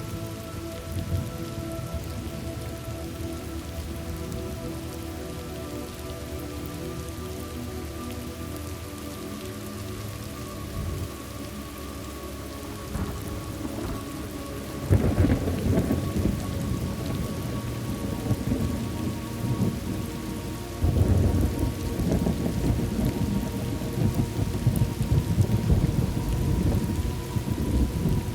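Thunderstorm: steady rain with rolling thunder. A loud thunderclap rumbles in about halfway through, and another about three quarters of the way in.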